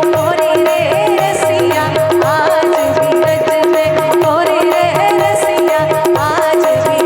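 Instrumental passage of a Braj Holi rasiya folk song: a melodic lead plays bending, ornamented runs over a steady held drone note and an even drum beat.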